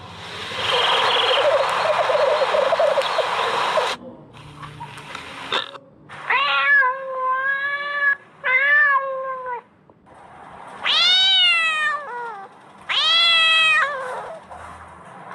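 Kittens meowing: a loud rasping, noisy stretch lasting about four seconds, then a run of short meows, and two longer drawn-out meows near the end.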